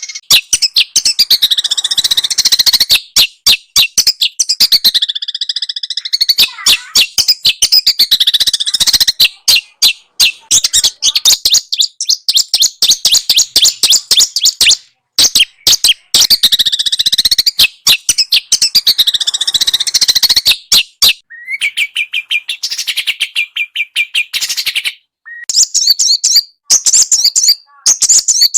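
A small songbird's rapid, rough chattering song: a dense run of fast high notes and sweeping trills, broken by a few short pauses.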